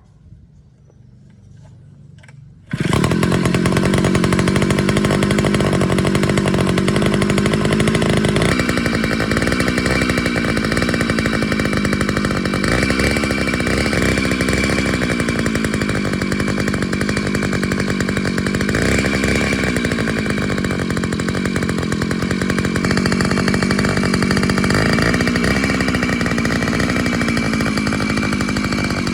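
Small two-stroke engine of a petrol water pump starting up about three seconds in and then running steadily at speed, the engine speed dipping and recovering every few seconds.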